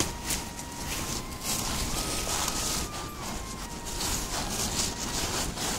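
Wind buffeting the microphone with irregular rustling of leaves and handling noise. A faint steady tone hangs underneath; it rises slightly about two seconds in and drops back about a second later.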